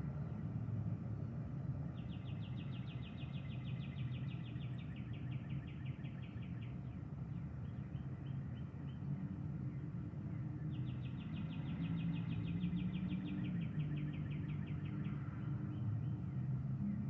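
A small songbird's fast, dry trill, sung twice, each about five seconds long and sliding slightly down in pitch. A steady low outdoor rumble runs underneath.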